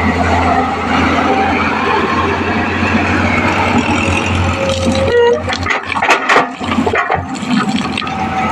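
Heavy earthmoving machine's diesel engine running steadily with a low hum, with a short run of knocks and clatter partway through.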